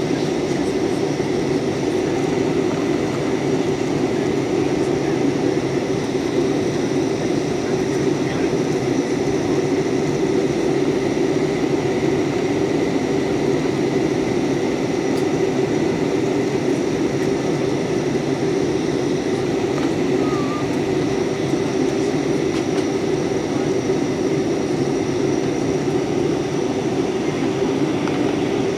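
Jet airliner cabin noise heard from inside the cabin: a steady roar of engines and airflow with a faint, steady high whine, while the plane descends toward landing.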